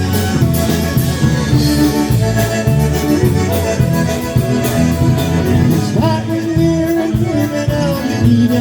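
Live polka band playing an instrumental break of a country song between sung verses, with a steady beat and held melody notes.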